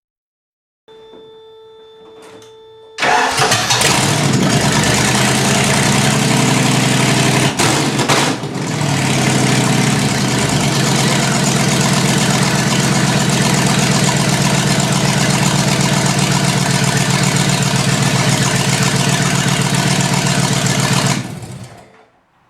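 Ford 5.0 litre V8 catching and running on its first start in an engine swap, its distributor timing not yet set, after about two seconds of a faint steady whine. It runs for about eighteen seconds with a brief stumble partway through, then is shut off near the end.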